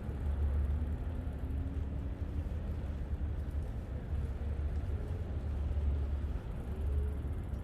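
Steady low rumble of wind and riding noise on the microphone of a moving bicycle, with a faint sliding tone or two in the background.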